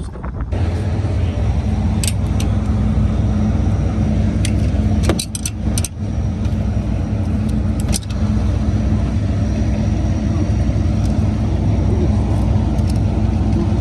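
John Deere 9770 STS combine's engine running steadily, with a few sharp clicks or knocks scattered through, several around five to six seconds in.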